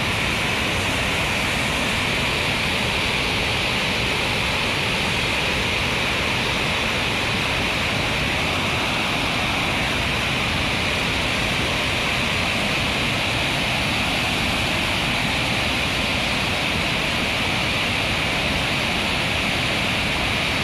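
The Berkri waterfall's water pouring down in a steady, unbroken rush.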